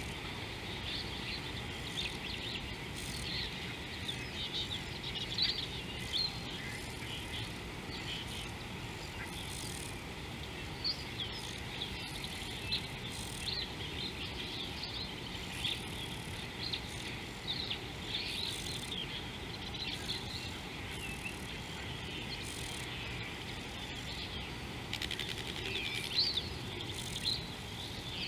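Small birds chirping in a busy, overlapping chorus of short high calls, over a steady low background rumble.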